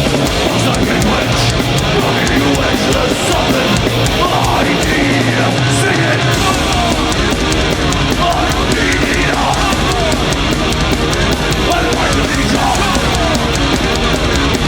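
Metal band playing live at full volume: guitars, bass and drums, the bass end filling out about six seconds in.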